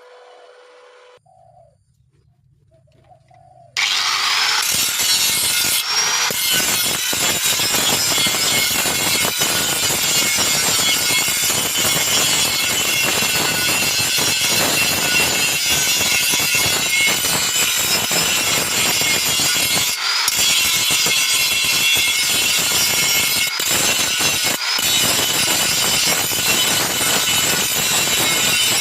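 Stick (SMAW) welding arc crackling on thin sheet metal with a 2.6 mm electrode. It strikes about four seconds in and runs steadily, breaking off for an instant twice near the end.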